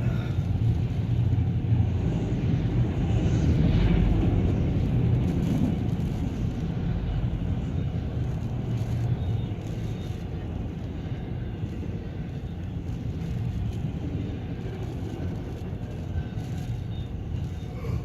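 Autorack freight train cars rolling past on the rails, a steady low rumble. The rumble is loudest over the first six seconds or so and then slowly eases off.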